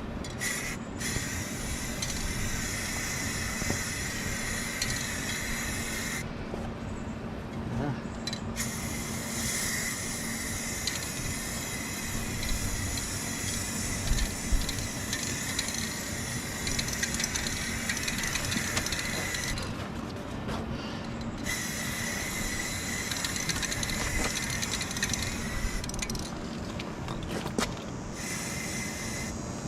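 Aerosol spray-paint can fired through a clip-on trigger sprayer handle, hissing in long bursts with short breaks about a quarter of the way in, about two-thirds in, and near the end.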